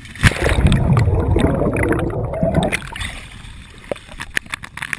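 Water splashing and sloshing close to the microphone: a loud churning rush for about two and a half seconds, then scattered smaller splashes and drips.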